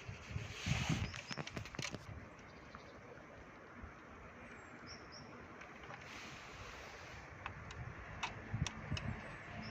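Handling noise: rustling and low thumps at first, then a quieter stretch, and several sharp clicks near the end. Two brief high chirps sound around the middle.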